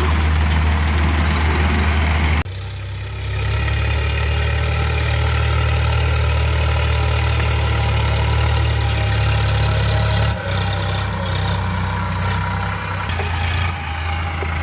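Tractor engine running steadily with a low hum; the sound changes abruptly about two and a half seconds in, and dips briefly near the end.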